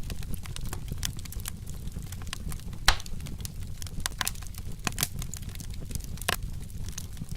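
Wood fire burning, with a low steady rumble under irregular crackles and sharp pops; the loudest pop comes about three seconds in.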